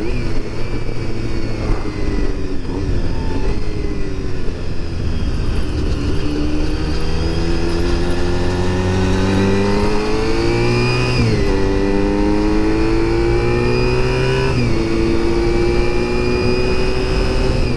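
Engine of a 1996 Honda RVF400 V4 sport bike pulling under throttle. Its pitch rises through the revs with two upshifts, one about eleven seconds in and another near fifteen, then settles to a steady cruise, with wind rushing past the rider.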